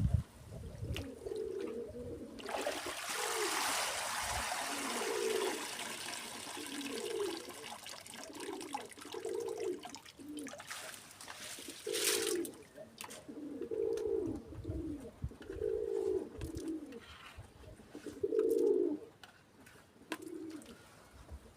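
Pigeons cooing over and over in short low calls, about one a second. Water runs for several seconds in the first half.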